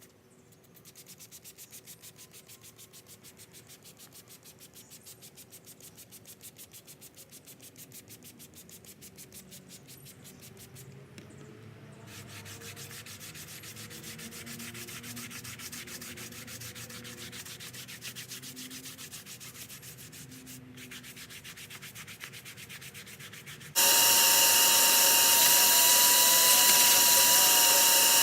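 Fast, even rhythmic scrubbing or rubbing that gets louder about halfway through. About 24 s in, a loud electric motor starts suddenly and runs steadily with a high whine.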